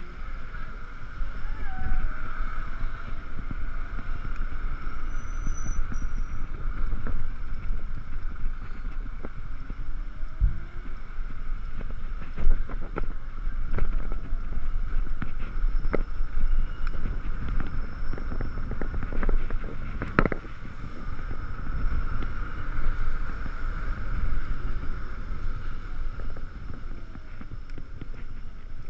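Riding noise from an Ekoway ML5000 electric vehicle in the rain: a steady rush of wind and wet road noise, with a faint motor whine that rises and falls in pitch. There are occasional sharp knocks, the loudest about twenty seconds in.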